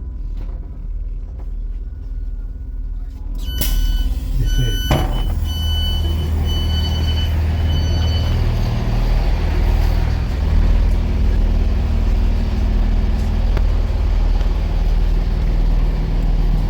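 Diesel passenger train at the station: a run of short high door-warning beeps starts about three and a half seconds in and stops about four seconds later. Meanwhile the train's engine rises to a loud, steady low drone.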